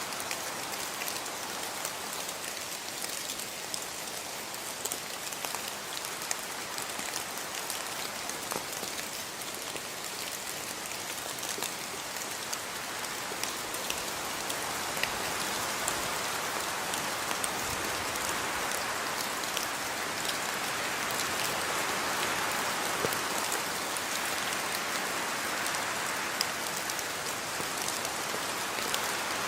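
Steady rainfall: a continuous hiss of rain with many individual drops ticking on a surface, growing slightly louder about halfway through.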